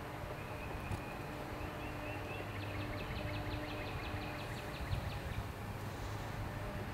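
Woodland ambience: a songbird sings a rapid trill of evenly repeated high notes, about seven a second, from roughly two and a half to five seconds in, over a steady low rumble.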